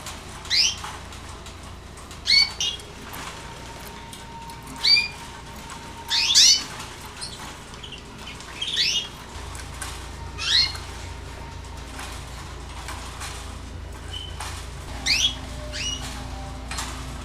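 Canaries giving short, sharp, high calls that sweep quickly down in pitch, about eight of them spaced a second or two apart, with a few seconds' pause in the middle.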